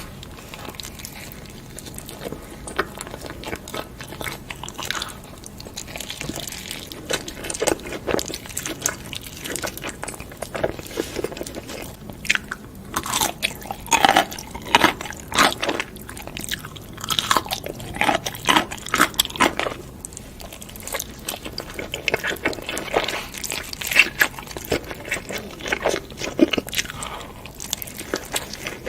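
A person eating: repeated bites and chewing with crisp crunches, most frequent around the middle and again toward the end.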